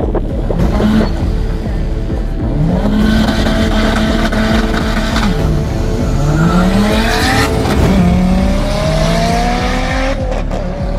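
Drag-race car engines at the start line: a short rev blip, then revs held steady, then hard acceleration away down the strip, the engine pitch climbing and dropping back at each gear change.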